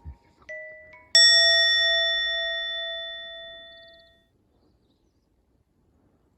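The end of the background music: two soft short notes, then a single chime struck about a second in that rings out and fades away over about three seconds.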